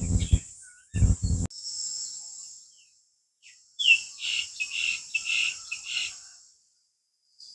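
Insects trilling steadily and high, and a bird calling a quick run of about six clear notes about four seconds in, the first note sliding down. Two short low rushing bursts come in the first second and a half.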